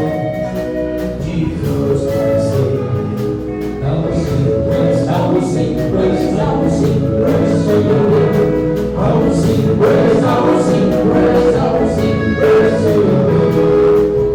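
Gospel praise song sung by a group of voices over instruments, with a steady beat.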